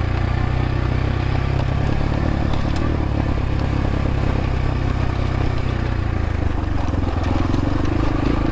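X-Pro Templar X 250 single-cylinder dirt bike engine running steadily as the bike is ridden, its note shifting about seven seconds in. A few sharp clicks sound over it.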